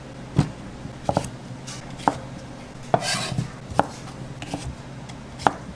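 Kitchen knife chopping on a cutting board, sharp separate strokes at an uneven pace of roughly one a second.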